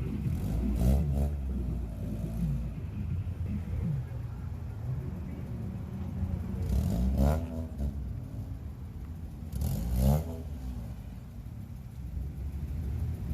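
Car engine revving three times, about a second in, around seven seconds in and around ten seconds in, each rev rising in pitch and falling back, over a steady low engine sound.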